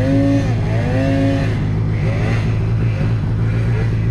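Snowmobile engines running: a steady low engine drone, with the engine pitch rising and falling several times as riders throttle on and off.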